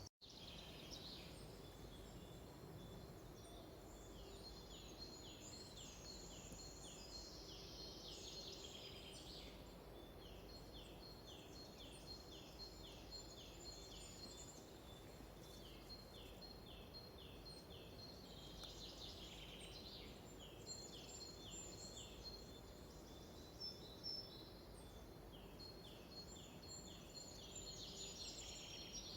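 Faint birdsong: several small songbirds singing, one repeating runs of short, quick downward-sliding notes, over a steady low background hum.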